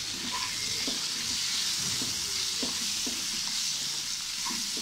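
Sliced potatoes and onions sizzling in hot mustard oil in a non-stick kadai, a steady frying hiss. A wooden spatula stirs them, scraping and tapping the pan now and then.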